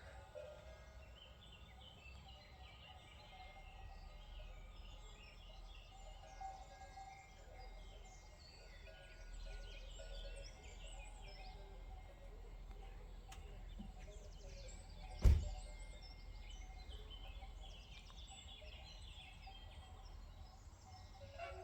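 Outdoor ambience of birds chirping over a low steady rumble, broken once, about fifteen seconds in, by a single sharp thump.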